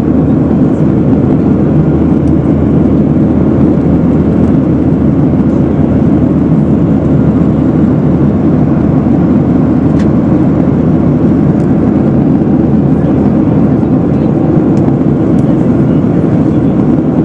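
Steady drone of a jet airliner heard from inside the passenger cabin: engine and airflow noise, loud and unchanging.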